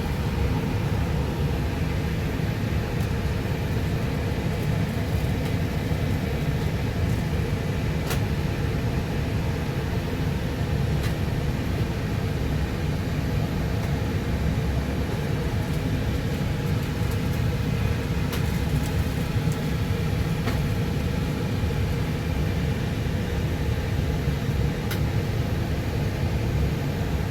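Steady rumble of an Airbus A320's engines and airflow, heard from on board the aircraft, even in level with a faint steady hum under it.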